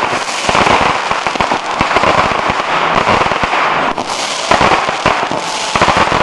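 Fireworks going off in rapid succession: many close-spaced bangs over constant crackling, with no break.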